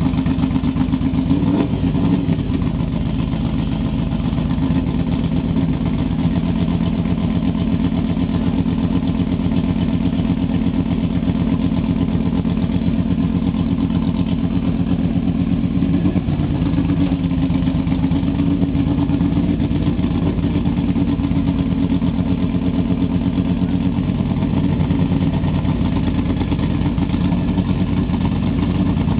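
Mini station wagon drag car's engine running loudly at a steady idle, with a fast even pulse to it and a brief rise about two seconds in.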